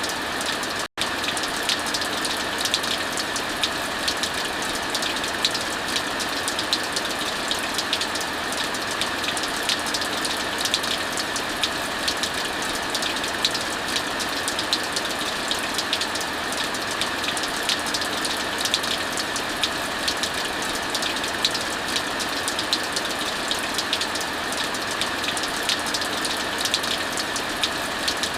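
Steady heavy rain mixed with a wood fire crackling, small sharp pops scattered all through. The sound cuts out for an instant about a second in.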